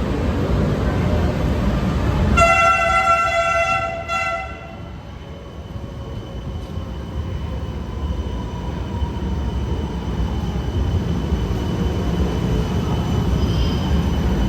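MRT-3 light rail train running with a steady rumble. About two seconds in it sounds its horn: a blast of about a second and a half, then a brief second toot. After that the rumble drops and a faint whine lingers.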